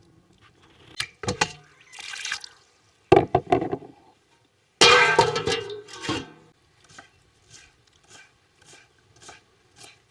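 Water being poured and splashed in a pot or basin, with two loud gushes, then a knife chopping on a board at about two strokes a second.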